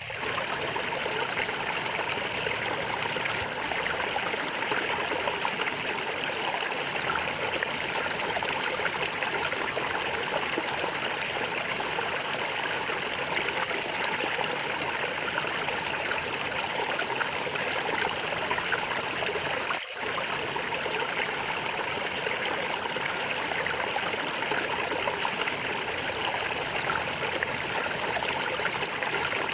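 Stream water flowing and gurgling steadily, with a brief drop in level about twenty seconds in.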